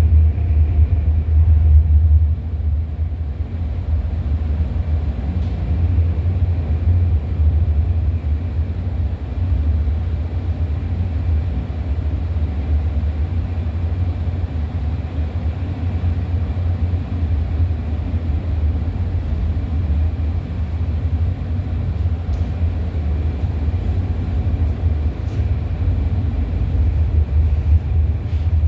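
Freight train rolling past, a steady low rumble of the cars and wheels on the rails, with a few light clicks in the second half.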